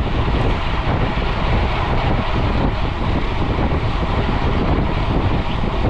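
Steady rush of wind buffeting a camera microphone mounted on a mountain bike riding at speed on a paved road, mixed with tyre noise.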